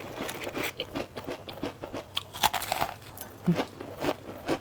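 Crisp, flaky Huangshan shaobing pastry being bitten and chewed close up: a dense run of sharp crackles and crunches as the thin, layered crust breaks.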